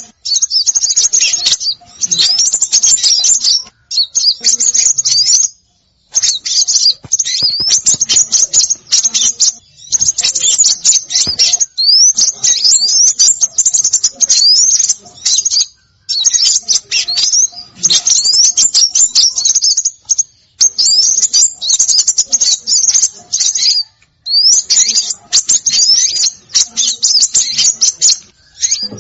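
Bird-lure recording of small songbirds calling: rapid, high-pitched chirps and quick whistled glides packed tightly together, in bursts of a few seconds broken by short pauses.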